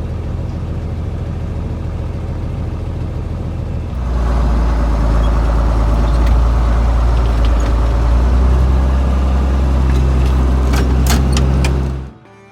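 Tractor engine running steadily. About four seconds in it gets louder and heavier, as if throttled up to pull away, and holds there until the sound cuts off abruptly near the end.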